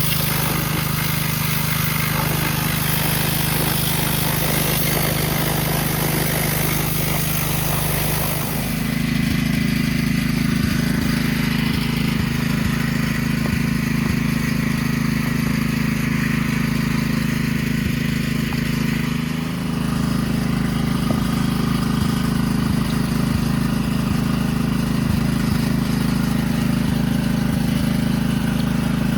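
2009 Kawasaki KLX140L dirt bike's single-cylinder four-stroke engine running steadily, its note stepping up to a higher, steady pitch about eight seconds in.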